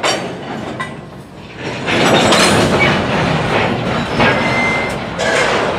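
Coal hopper cars of a freight train rolling past, wheels clattering over the rails, with a brief high wheel squeal about four seconds in.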